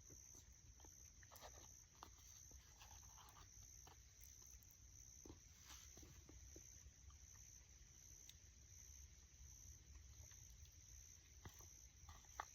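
Near silence: faint outdoor quiet with a steady high-pitched hiss and a few faint scattered clicks.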